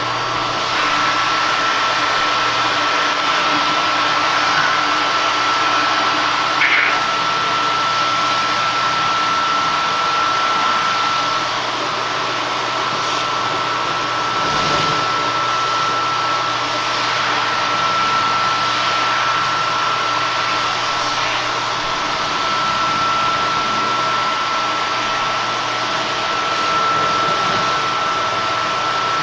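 Hoover WindTunnel Air bagless multi-cyclonic upright vacuum cleaner running, a constant rush of air with a steady high motor whine and a low hum, rising and falling slightly as it is pushed over the floor. A brief click about seven seconds in.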